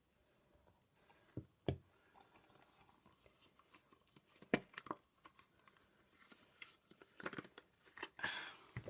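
Handling sounds of a silicone mould being worked off cured resin: a few scattered taps and knocks with soft peeling and rustling.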